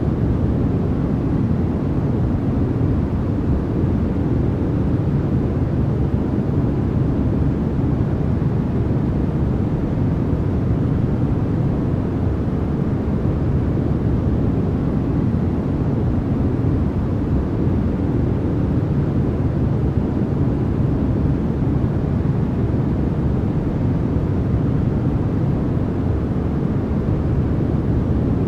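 Continuous generated white noise: a steady, unchanging hiss with no tones or events, its weight in the low end and the highs rolled off.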